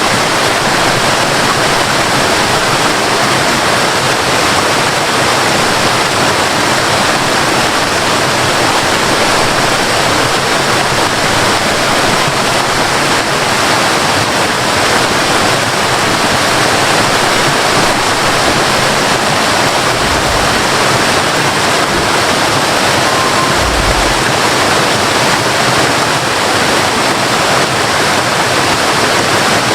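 Waterfall: water falling and splashing in a steady, loud rush, with a couple of brief low thumps near the end.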